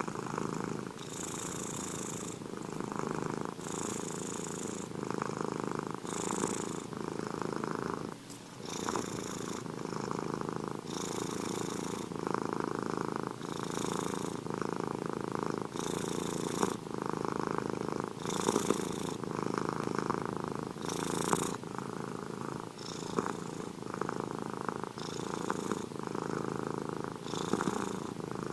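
Domestic cat purring steadily and close up. The purr swells and shifts in an even rhythm with each breath in and out, about one cycle every two and a half seconds, with a brief break about eight seconds in.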